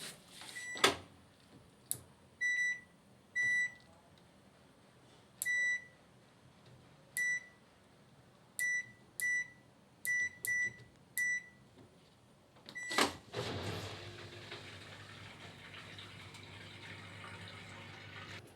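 Front-loading washing machine's control panel beeping as its buttons are pressed: about ten short, single-pitched beeps at uneven intervals. Near the end a clunk, then the machine starts running with a steady hum and hiss.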